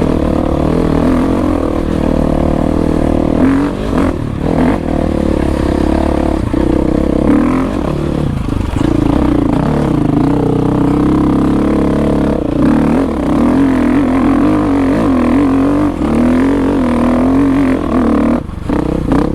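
Dirt bike engine running hard under load, its revs rising and falling continuously, with a brief drop in revs near the end.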